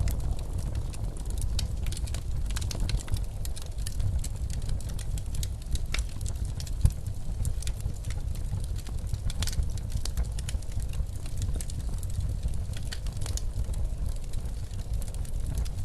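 Wood fire in a fireplace crackling, with irregular sharp pops and snaps, over a steady low rumble of blizzard wind.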